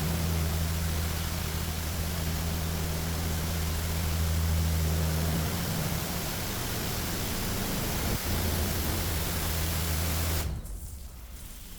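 Touchless automatic car wash jets spraying the car at high pressure: a steady hiss with a low machine hum under it. The hum breaks off about halfway through and comes back a few seconds later, and the spray cuts off sharply near the end.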